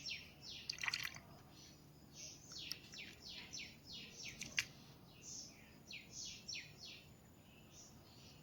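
Small birds chirping: a long run of quick, high chirps that each slide downward, several a second, with a couple of sharp clicks, about a second in and again past the middle.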